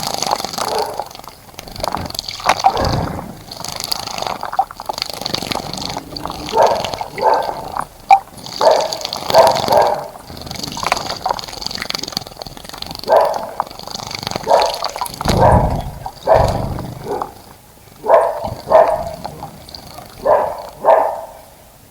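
Birds bathing in a bird bath, splashing water with their wings in repeated short bursts, several bursts close together at a time.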